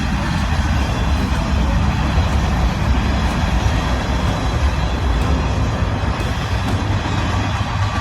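Train passing, a steady heavy rumble of the rolling cars.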